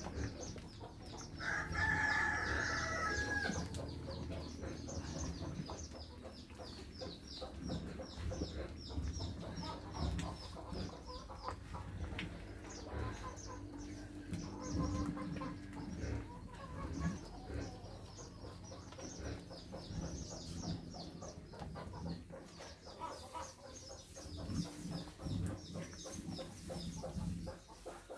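Chickens: a rooster crows once about a second and a half in, with hens clucking and a steady run of short high chirps throughout.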